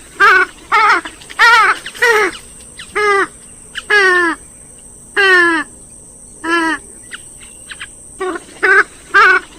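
Gallinule calls from a recording of swamphens and moorhens: about a dozen short, loud calls in uneven succession, most falling in pitch, over a steady faint hiss.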